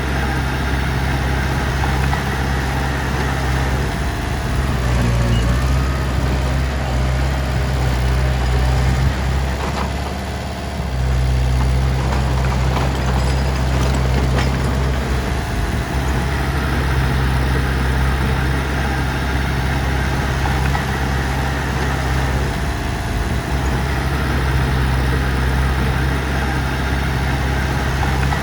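Heavy diesel engine running steadily at a low, even note, which dips briefly about ten seconds in and then picks up again.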